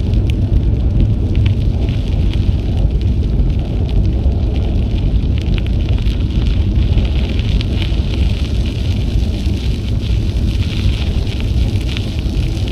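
Wind rumbling on an action camera's microphone while riding a bicycle, with fine crackling from the tyres rolling over the trail surface.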